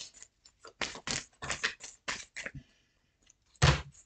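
Tarot cards being shuffled and handled: a quick, irregular run of short papery rasps, then a louder thump about three and a half seconds in, like a card or the deck set down on the table.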